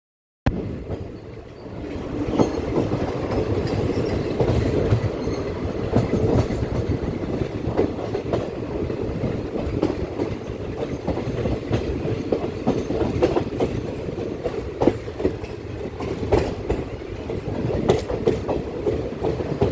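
Train moving past, its wheels clicking and clacking irregularly over rail joints above a steady running noise. The sound starts after a brief gap at the very beginning.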